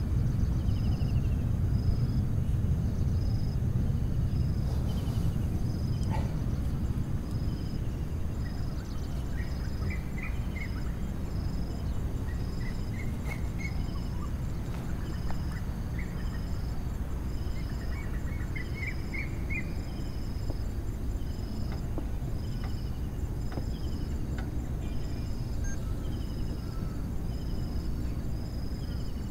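Low, distant jet rumble from a departed Boeing 767-306ER, slowly fading as it climbs away. Insects chirp in a regular pulse about one and a half times a second, and birds twitter now and then.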